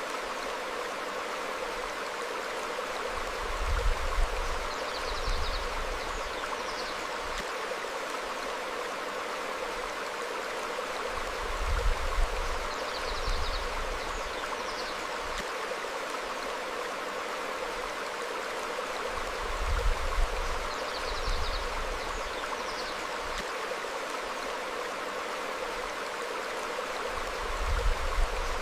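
Stream flowing steadily over rocks, with short, faint, high bird chirps now and then. A low rumble swells up briefly about every eight seconds.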